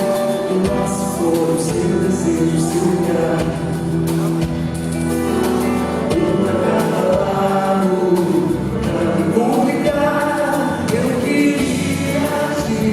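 Live performance of a Brazilian pop song: singing over band accompaniment, with several voices at once.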